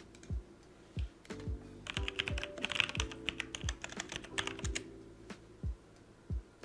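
Computer keyboard typing in a quick burst of keystrokes lasting about three seconds, over background music with chords and a steady low drum beat.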